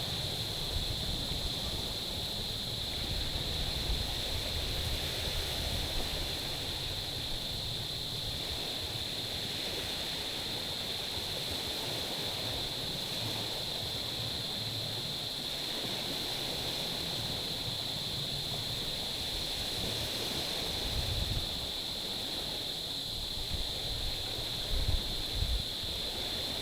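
Small waves lapping and washing over a stony, pebbly shore in slow gentle swells. A constant high, thin whine sits above the water sound.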